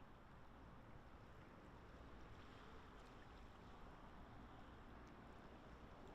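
Near silence: faint steady outdoor background noise with a low rumble.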